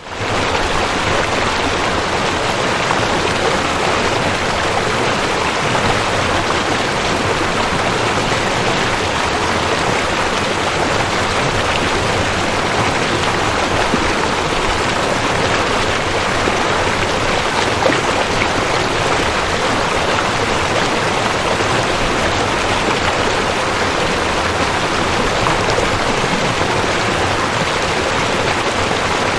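Rushing creek: fast water running over rocks in a steady, even splashing rush.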